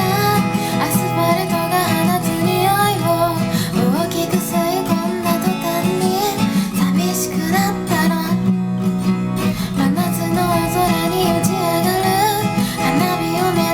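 Acoustic guitar being strummed and picked steadily as accompaniment to a song.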